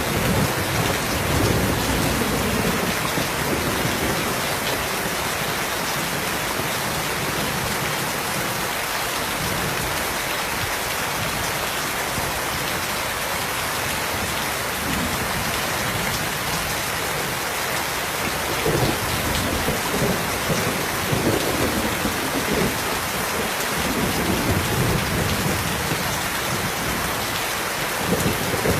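Steady rain falling, with low rolling rumbles of thunder near the start and again through the last third.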